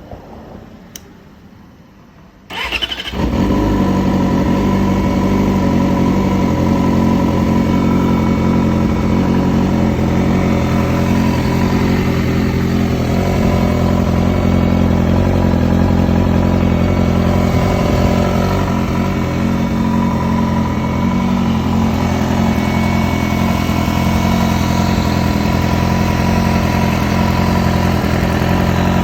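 A newly installed engine starts about two and a half seconds in and runs steadily, with a weird rattle that the owner says sounds like it's right under the air box.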